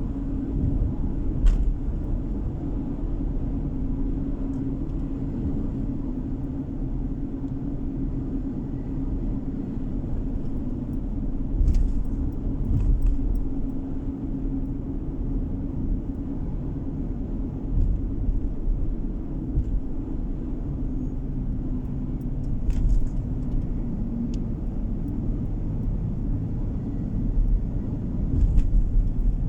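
Steady low rumble of a car driving on the road, heard from inside the car: tyre and engine noise with a constant hum. There are a few brief knocks, about four in all.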